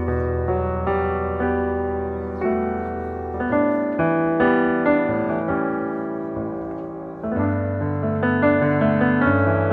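Background piano music: a slow melody over held low bass notes.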